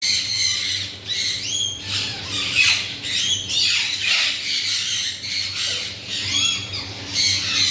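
Alexandrine parakeets squawking, harsh calls repeated one after another throughout, over a low steady hum.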